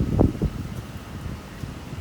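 Typhoon wind gusting against the microphone: heavy low buffeting in the first half second, easing to a steadier rumble.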